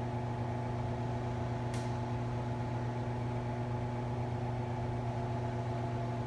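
Steady low electrical hum with a few higher overtones held at a constant pitch; one faint tick about two seconds in.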